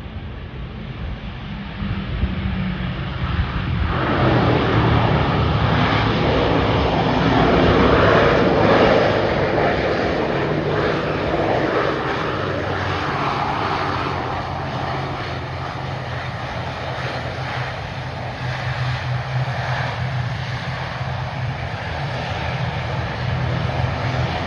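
Airliner engines close by at an airport runway: a steady low hum, then engine noise that swells about four seconds in, is loudest around eight seconds, and eases to a steady drone.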